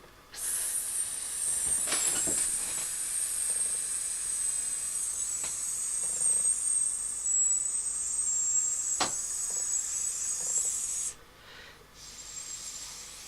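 A high, narrow hiss blown through pursed lips with hands cupped around the ear and mouth, imitating the sufferer's own tinnitus, which he likens to narrowband filtered pink noise. The pitch drifts slightly lower, breaks off for about a second near the end, then comes back fainter.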